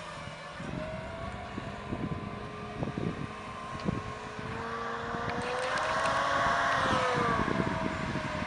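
John Deere 7280R tractor's diesel engine running under load while pulling a big plough. It grows louder and higher in pitch until about seven seconds in, then its pitch drops, with wind buffeting the microphone.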